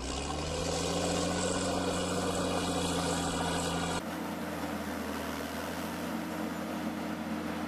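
An engine revving up slightly, then running steadily. About four seconds in it cuts abruptly to another steady-running engine.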